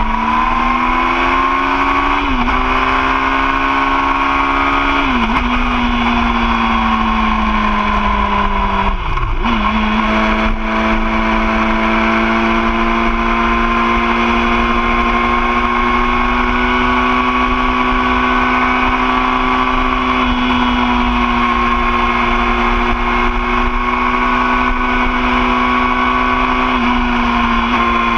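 2013 Yamaha R6's inline-four engine pulling hard through two quick upshifts, where the revs drop and climb again. About nine seconds in the revs fall away and then jump back up, before the engine settles to steady cruising revs. Wind rushes over the microphone throughout.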